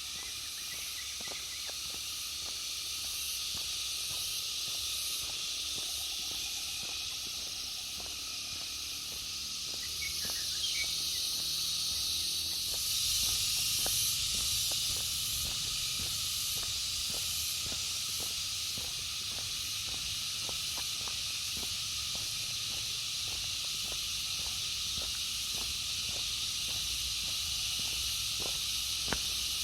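A dense, steady chorus of forest insects buzzing and hissing, with a thin high whine among them that stops about twelve seconds in. Walking footsteps on the road tick along underneath at an even pace.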